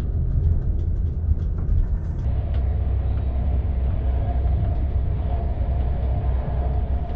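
Sleeper train running on the rails: a steady heavy low rumble, with a run of light clicks and rattles in the first two seconds.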